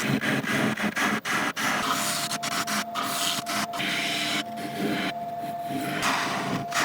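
Chestnut burl spinning on a wood lathe while a tool works its surface, a steady noisy scraping with short regular breaks in the first second and a half. A steady whine joins about two seconds in.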